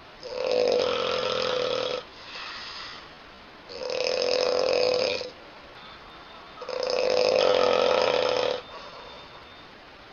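A woman snoring loudly: three long, pitched snores about three seconds apart, with softer breathing between them.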